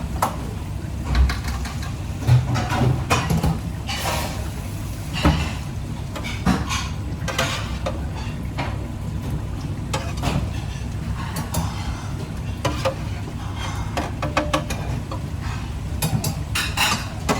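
Kitchen work clatter: utensils, pans and dishes clinking and knocking at irregular moments over a steady low hum.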